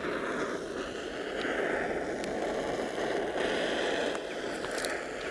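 Steady rushing hiss from a heat source softening the end of an HDPE pipe so a collar can be pushed on. It swells twice, with a few light ticks.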